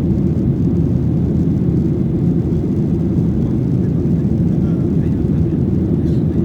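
Steady low rumble inside the cabin of a Boeing 737-800 in flight: its CFM56-7B turbofans and the rushing airflow, with no change in level.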